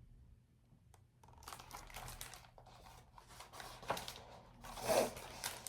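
Paper rustling and crinkling as a picture book's pages are handled and turned, loudest near the end.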